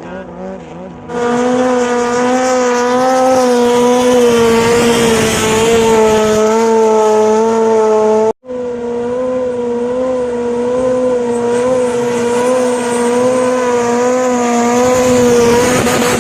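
A Thai longtail racing boat's engine running flat out at high revs: a steady drone whose pitch wavers slightly. It jumps louder about a second in and cuts out for an instant about halfway through.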